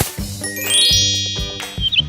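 A bright chiming sound effect: a quick rising run of bell-like notes about half a second in, left ringing, over background music with a bass line.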